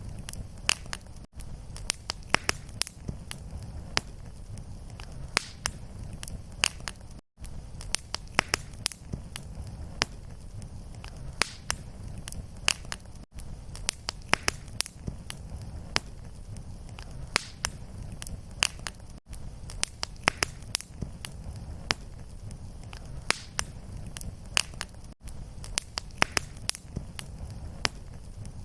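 Wood fire crackling: frequent sharp pops and snaps over a steady low rumble of flame. The sound drops out for an instant about every six seconds.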